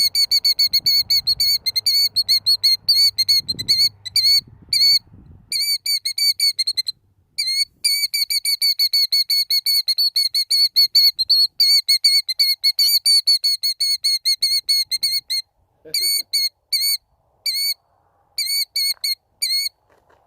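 Killdeer giving its alarm call at the nest: long, fast runs of short, shrill whistled notes, several a second, broken by brief pauses. This is the bird's alarm at intruders near its eggs.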